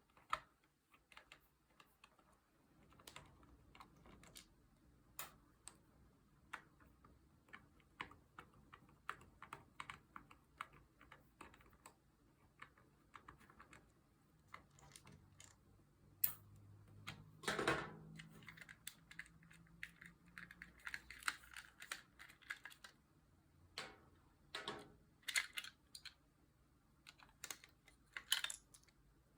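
Scattered small plastic clicks and taps from handling the parts of a toy fire station under repair, with one louder knock about eighteen seconds in.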